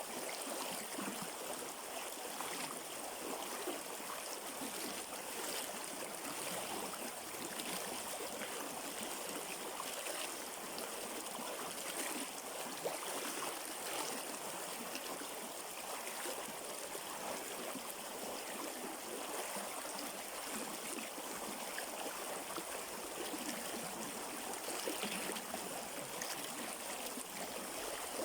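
River water running steadily over rocks, a continuous stream sound with a light splashing, gurgling texture.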